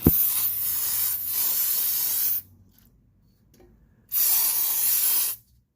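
Spray can sprayed into a motorcycle oil filter housing to clean it out: a click, then two bursts of hissing spray, the first about two seconds long, the second shorter, about four seconds in.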